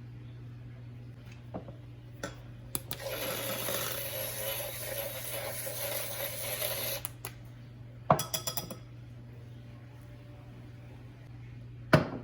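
Kitchen drink-making sounds: a few light clicks, then about four seconds of steady noisy whirring or pouring, a short rattling clatter, and a sharp knock near the end, over a steady low hum.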